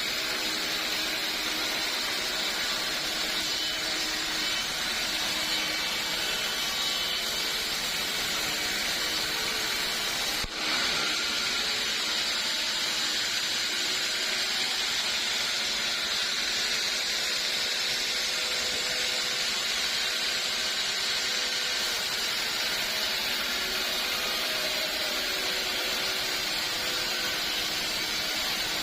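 Sawmill saw cutting through old teak wood, a steady even noise with no beat to it, broken by a very brief dip about ten seconds in.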